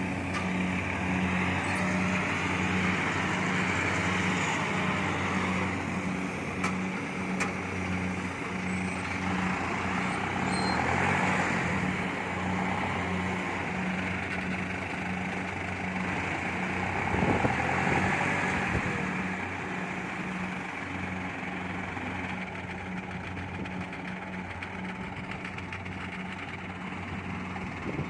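Kubota DC70 Plus combine harvester running steadily while cutting rice: a diesel engine hum under a rushing machine noise. The sound swells briefly about two-thirds of the way through.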